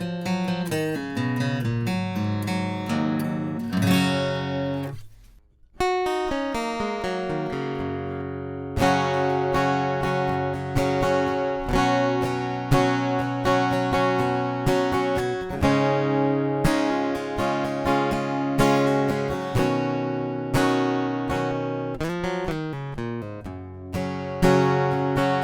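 Strinberg SD300 acoustic guitar played solo, picked and strummed chords ringing out. It stops briefly about five seconds in, then the playing resumes.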